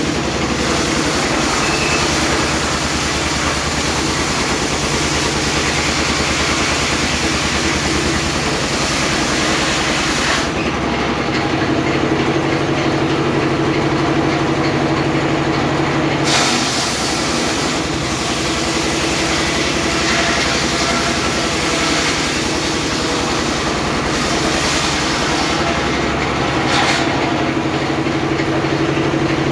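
Homemade circular sawmill running: a steady engine drone under a high hiss that drops away for several seconds mid-way and again near the end.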